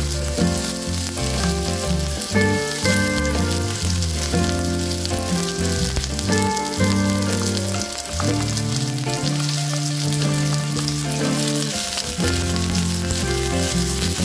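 Sliced shallots and garlic sizzling steadily in hot oil in a wok as they are tipped in and stirred, over background music.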